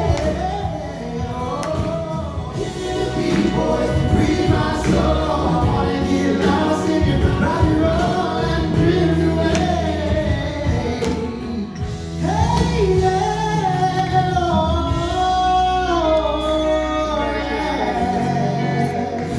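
Live music: several voices singing together in harmony over band accompaniment, with a short break in the singing about twelve seconds in.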